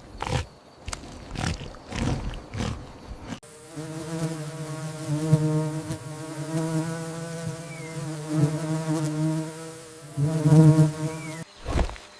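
A flying insect buzzing: a steady, pitched hum with many overtones that cuts in sharply about three seconds in and stops shortly before the end. Before it comes a run of short, irregular knocking sounds.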